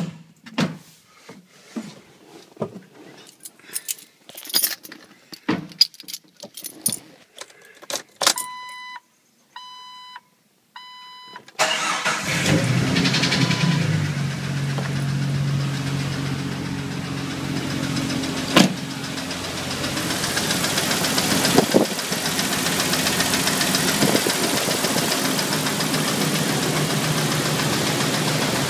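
Clicks and knocks of someone settling into the vehicle, three dash warning chimes, then the 1997 Jeep 4.0-litre inline-six starts about twelve seconds in and settles into a steady idle. The owner is recording this idle for an engine knock, and two sharp knocks stand out a few seconds apart.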